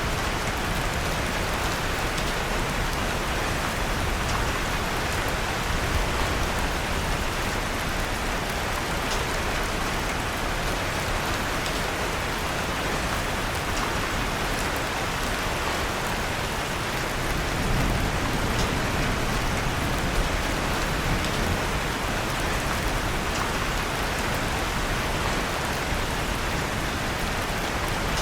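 Steady rain pattering, with faint, occasional crackles from a wood fire in a fireplace.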